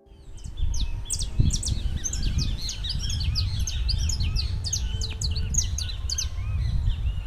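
A chorus of many small birds chirping and twittering, with quick overlapping calls throughout, over a steady low rumble.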